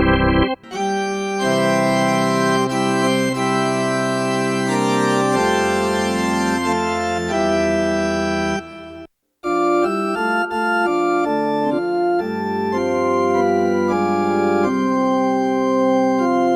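Korg i3 workstation keyboard playing organ presets: sustained chords over a bass line. The sound breaks off briefly about half a second in and stops again for a moment about nine seconds in before the chords resume.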